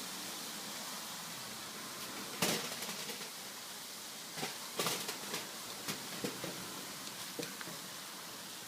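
Noodles deep-frying in hot oil in a wok, a steady sizzle with a few sharp clicks and pops about two and a half seconds in and again through the middle.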